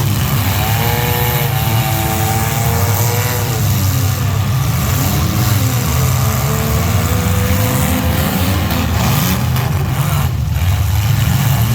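Engines of mini trucks, vans or SUVs running loudly, with a steady low rumble under engine notes that rise and fall as they rev.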